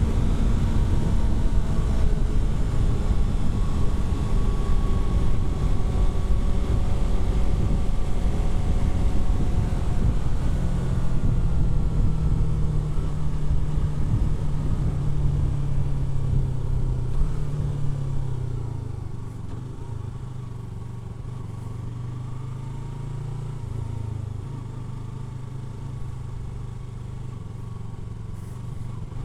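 Yamaha R3's parallel-twin engine running while riding, with heavy wind rush over it; about two-thirds of the way in the level drops and it settles to a quieter, steady engine note.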